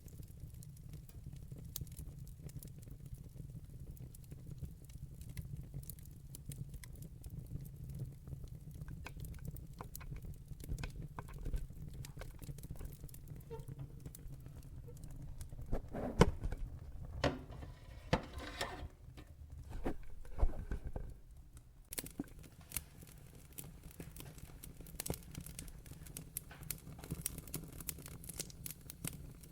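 Wood fire burning in a fireplace, crackling and popping with scattered sharp snaps over a steady low rumble; a denser run of louder pops comes a little past halfway through.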